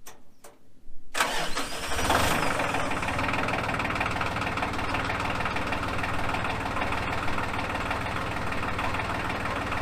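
Small tractor's engine started after sitting unused for a while: two clicks, then the starter cranks about a second in, the engine catches a moment later and settles into a steady idle.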